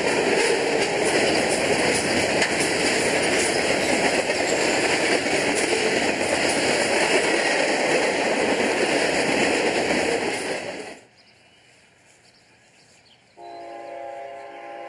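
Freight cars rolling past close by: a loud, steady noise of steel wheels on rail that cuts off abruptly about eleven seconds in. After a short lull, a locomotive air horn starts sounding more quietly, several tones held together as one chord.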